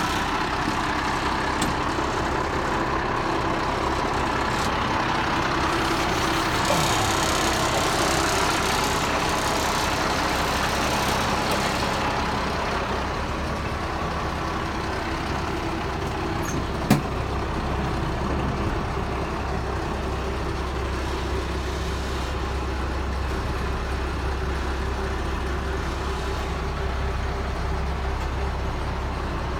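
Diesel engine of a 1995 International 4900 truck running steadily, with a single sharp click about seventeen seconds in.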